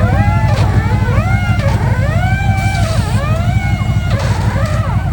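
Off-road race truck engine running hard, its pitch rising and falling again and again as the throttle comes on and off, over a steady low drone.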